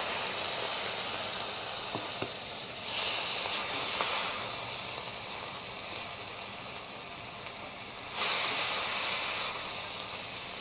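Raw shrimp sizzling in a hot pan with sausage, peppers and onions: a steady frying hiss that swells twice, about three seconds in and again about eight seconds in, with a few light clicks against the pan.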